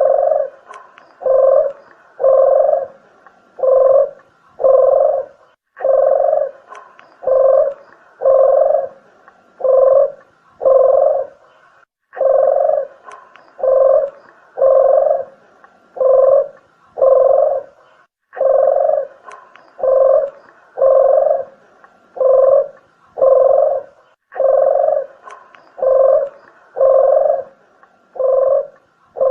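Sunda collared dove (deruk, puter geni) cooing: runs of five or six short, low coos about a second apart, with a brief pause roughly every six seconds. This is a lure call.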